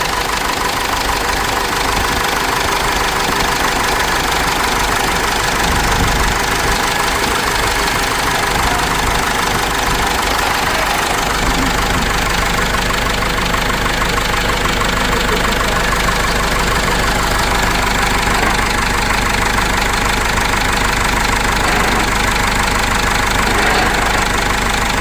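Cummins 4BT four-cylinder diesel in a Case 586E forklift, running steadily.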